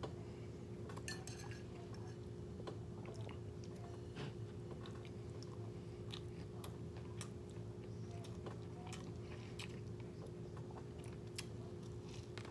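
Chewing a soft tortilla wrap, with scattered clicks and scrapes of a metal fork against a ceramic bowl, over a steady low hum.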